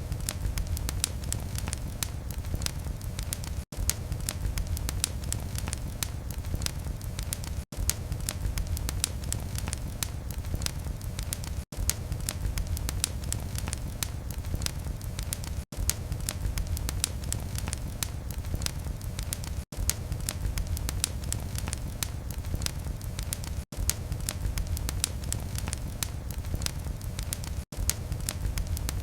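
Fireplace fire burning with a low rumble and dense, steady crackling of burning wood. The sound drops out for an instant about every four seconds.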